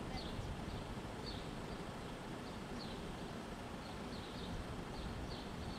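A small bird chirping over and over, short falling chirps two or three a second, over a low steady rumble.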